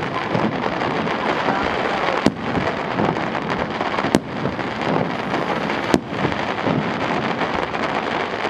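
Fireworks display: a steady dense crackle, with three sharp bangs about two seconds apart.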